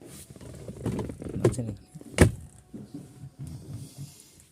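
Rustling and light knocks of handling inside a car's cabin, with one sharp click a little over two seconds in.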